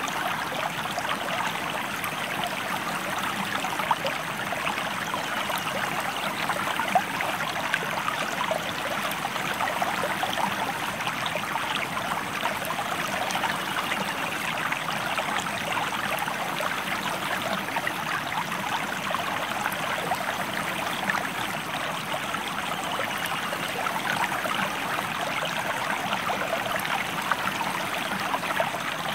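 A shallow river or stream running over rocks: a steady rush of splashing and trickling water that holds even throughout.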